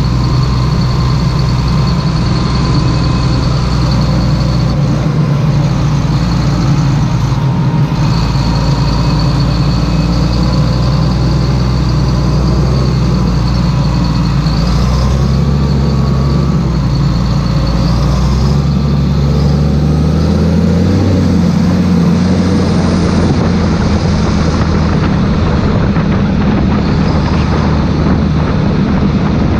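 Claas Xerion 3800 tractor engine running steadily, its engine speed shifting somewhat about two-thirds of the way through.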